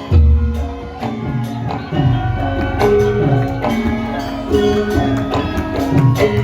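Javanese gamelan music for lengger dance: struck metal keyed instruments ringing held notes over a steady percussion beat, with a heavy low drum stroke just after the start.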